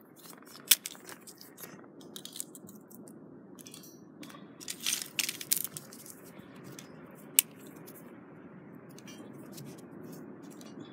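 Small twigs being snapped and fed into a small wood-burning stove to build up a newly lit fire: a few sharp snaps and clicks, with a cluster of crackling snaps about halfway through, over a steady low background noise.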